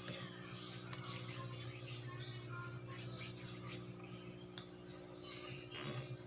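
Rustling and scattered light clicks of things being handled, over a steady electrical hum.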